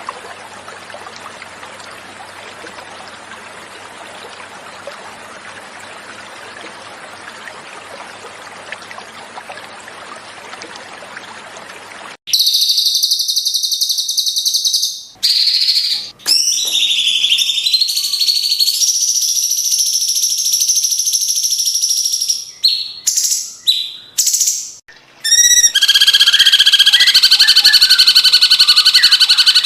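Flowing stream water for about twelve seconds, then cut off abruptly by loud cucak cungkok song: high, sustained whistled phrases with short breaks, and near the end a steady, rapidly repeated trill.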